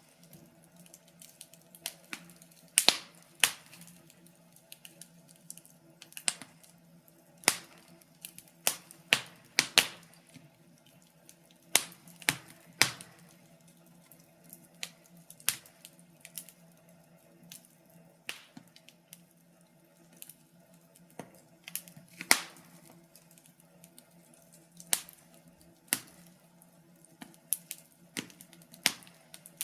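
Wood fire crackling: irregular sharp pops and snaps, a few seconds apart and sometimes in quick pairs, over a faint steady low hum.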